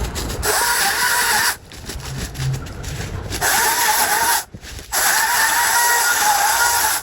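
Chainsaw run at full throttle in three bursts, cutting into a branch, with its high whine wavering under load and dropping back between bursts.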